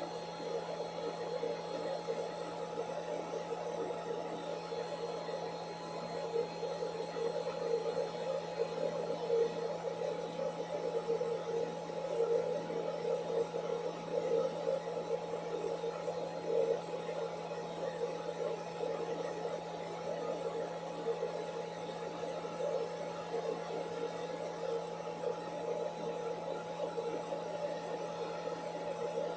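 Blow dryer running with a steady whir and hum that does not change, played back from a recording of one.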